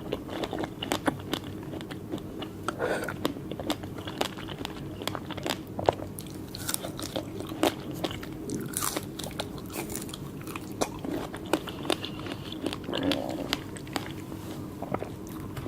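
Close-miked eating of fresh fruit: irregular wet bites and chewing, with many sharp crunchy clicks.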